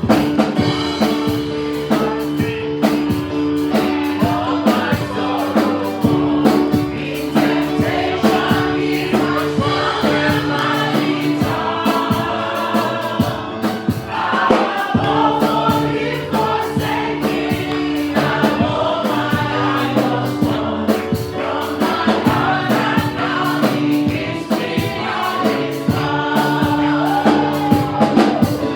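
Gospel praise and worship music: a choir singing over band accompaniment with a steady drum beat and sustained keyboard chords.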